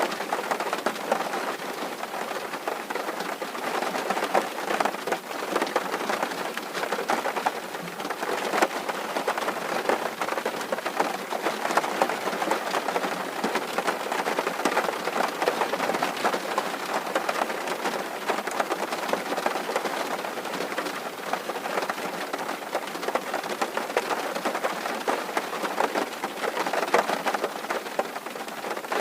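Steady rain drumming on a metal (tin) roof: a dense patter of countless drops that holds the same level throughout.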